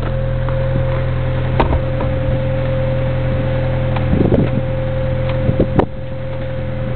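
The 1986 Reliant's 2.2-litre four-cylinder engine idling steadily, with a few short clicks and knocks over it.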